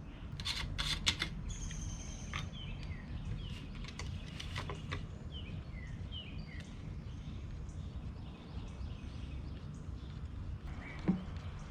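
Small birds chirping in short, repeated falling notes over a steady outdoor background hum. A few sharp clicks sound near the start and a single thump near the end, handling noise from refuelling the chainsaw.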